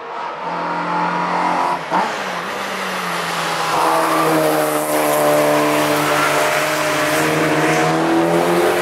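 Car engines approaching along the track, growing louder, with their pitch rising as they accelerate out of a corner, over a hiss of tyres. There is a short sharp crack about two seconds in.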